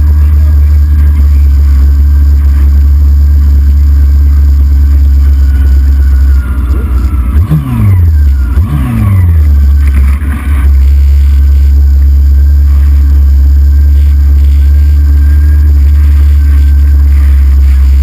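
Racing motorcycle at speed under loud, steady wind roar. About halfway through, the engine's revs drop twice in quick succession, then it settles back to a steady run.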